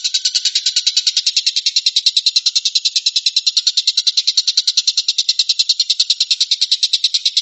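A songbird calling in a fast, even, unbroken trill of sharp high notes, about ten a second.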